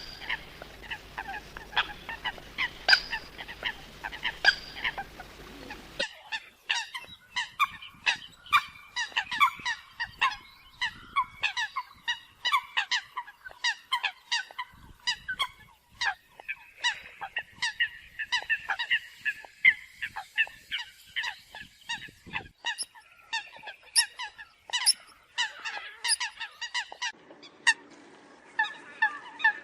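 Eurasian coots calling: a dense run of short, sharp honking notes, many overlapping one another. A low steady hum under the calls cuts off abruptly about six seconds in.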